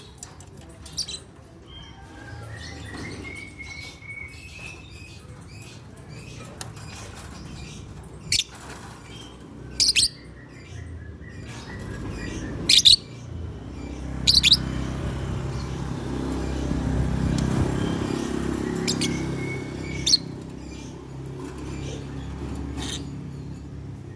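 Lovebirds giving short, shrill chirps every few seconds, over a low rumble that grows louder in the middle and fades again.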